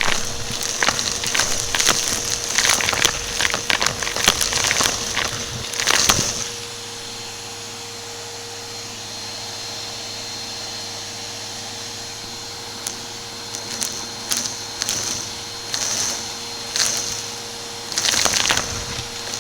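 Upright vacuum cleaner running with a steady motor hum, sucking up crunchy debris that crackles and clicks through the brushroll. The crackling is dense for about the first six seconds, gives way to the plain steady hum, then returns as scattered crackles that thicken near the end.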